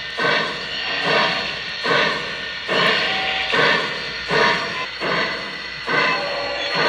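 Lionel 4-6-0 O gauge steam locomotive's sound system playing slow, evenly spaced steam chuffs, about one every 0.8 seconds, as the model runs on the track.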